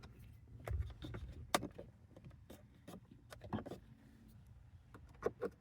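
Scattered light clicks and taps of a screwdriver and hands working a dashboard screw that spins in the plastic trim without backing out, over a low steady hum.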